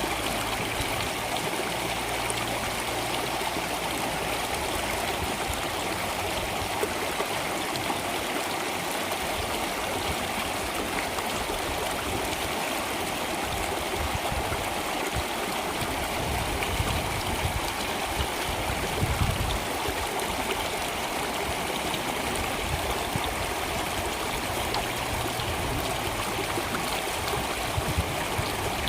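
Water flowing steadily in a stream, an even, unbroken rush with a light trickle.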